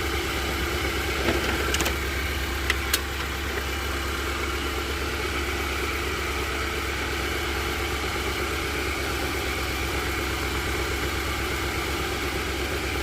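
Nissan Patrol engine idling steadily with the air-conditioning compressor engaged. A few sharp clicks come between one and three seconds in.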